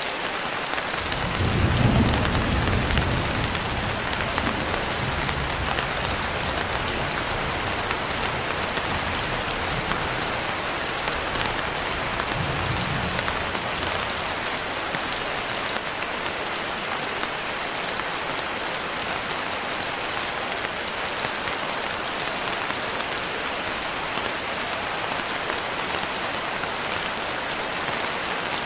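Steady heavy rain hissing, with a low roll of thunder swelling about a second in and fading over the next few seconds, and a fainter rumble near the middle.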